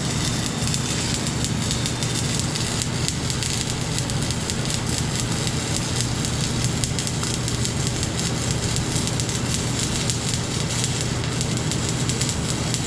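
Stick welding arc crackling and sizzling steadily as a flux-coated electrode burns down along a bead, with a low hum underneath.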